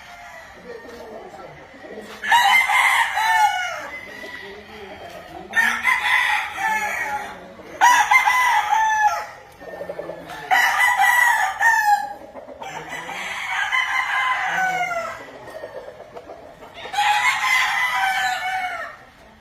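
Several gamefowl roosters crowing one after another, about six crows, some overlapping, each lasting one to two seconds.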